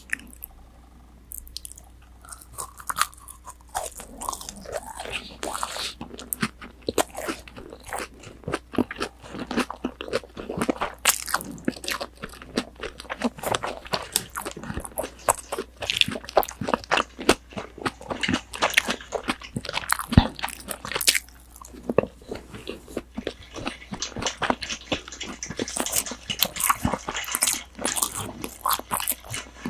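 Close-miked chewing of crunchy breaded, deep-fried pork cutlet (tonkatsu): dense, irregular crackling crunches of the fried crust that begin after a short lull about a second and a half in and grow crisper near the end.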